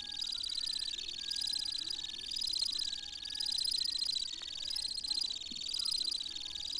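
Temminck's stint singing: one long, rapid, high trill without a break, wavering up and down in pitch about every second and a half.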